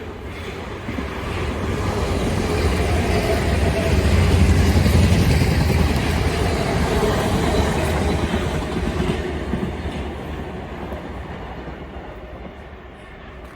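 A passenger train passing by on the rails, its noise swelling to a peak about four to five seconds in and then fading away.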